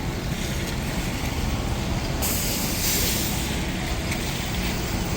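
Street traffic rumbling steadily, with a loud hiss starting about two seconds in and lasting over a second.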